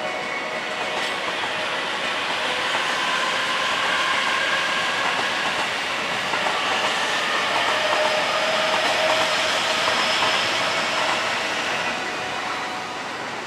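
Electric train running through a station: a steady noise of wheels on rails with a whining tone from its motors, growing louder through the middle and fading near the end.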